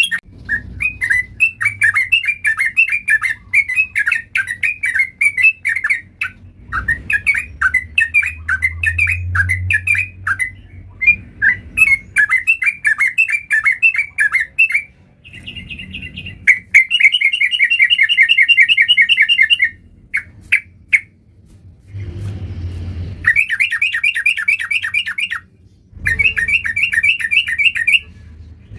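Yellow-vented bulbul (trucukan) singing loudly in long, rapid runs of bubbling, chattering notes. Each run lasts a few seconds, with brief pauses between them.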